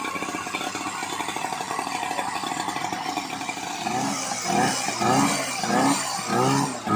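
Portable fire-pump engine running steadily. From about four seconds in, a loud pitched sound that rises and falls takes over, repeating about once every 0.7 seconds.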